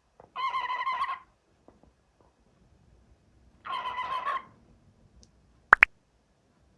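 Cockatiel calling: two warbling calls about three seconds apart, then two quick, sharp chirps near the end.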